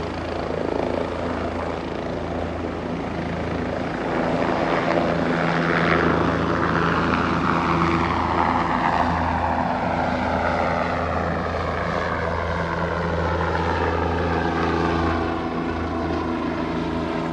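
Medical helicopter flying past: steady low rotor beat with turbine whine, loudest in the middle, the pitch falling as it passes and moves away.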